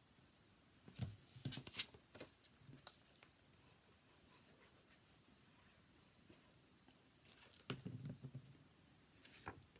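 Faint handling of paper and card: soft rustles and light taps as paper panels are laid and pressed onto a folded card, in short clusters about a second in, around seven to eight seconds in, and once more near the end.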